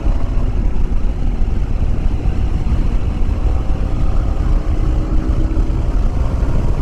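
Yamaha WR250R's single-cylinder engine running at a steady cruise, largely buried under heavy wind rumble on the microphone while riding.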